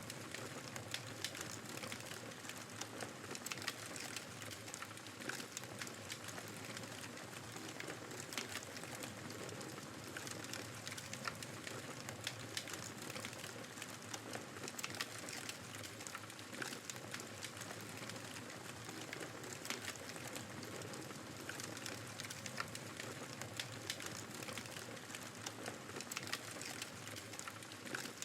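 Wood fire crackling, with frequent small sharp pops over a steady hiss of blizzard wind.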